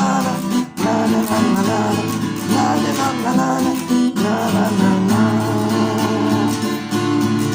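Music: a strummed acoustic guitar with a sung melody over it.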